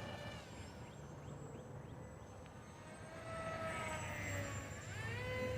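Aeroscout S2 RC plane's electric motor and propeller whining in flight. Its pitch drops shortly in, climbs again about three seconds in, then dips and rises sharply near the end as the throttle or distance changes.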